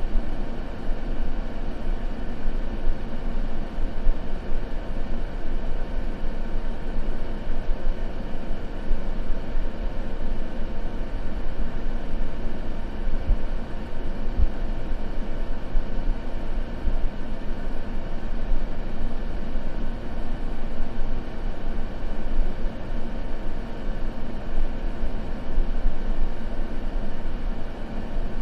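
Steady, unbroken white noise for sleep, heavy in the low end like a deep rumble, with no changes or separate events.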